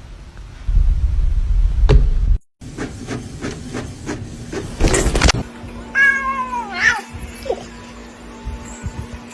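A cat meowing: one long meow that falls in pitch about six seconds in, with a short second call soon after. It follows a few seconds of low rumbling and a run of knocks and rustles.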